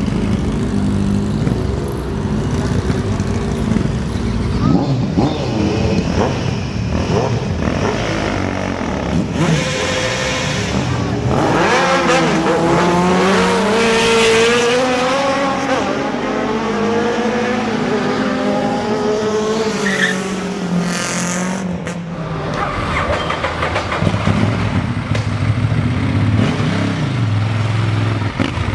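Sport motorcycle engines running on the street, one revving up and accelerating hard through the middle, its pitch rising and then slowly falling away.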